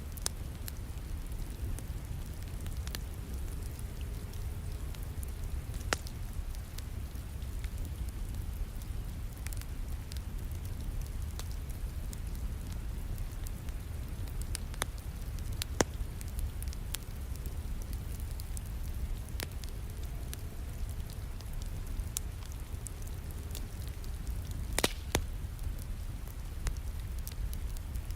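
Wood fire crackling, scattered sharp pops over a steady low rumble, mixed with steady rain. The loudest pops come about 16 and 25 seconds in.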